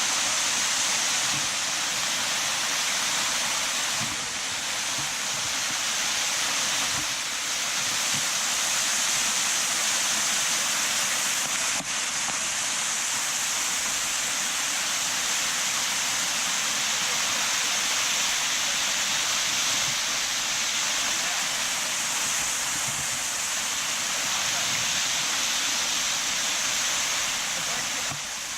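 Steady rushing noise of a waterfall, with falling water pouring without a break.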